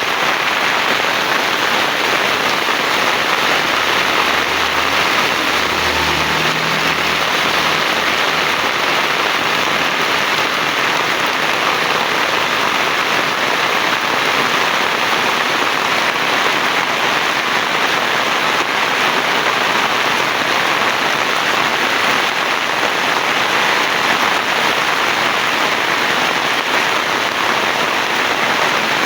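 Heavy rain pouring steadily, a dense even hiss with no let-up. A faint low hum comes in briefly between about four and nine seconds in.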